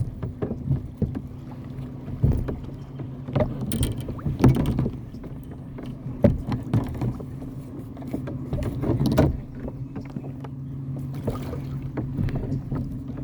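Kayak on the water being paddled and handled, with irregular knocks against its hull and short swishes of water, over a steady low hum.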